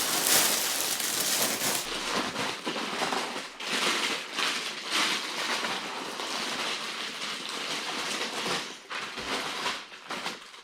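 Plastic bags of LEGO pieces rustling and crinkling as they are handled and pulled out of the box.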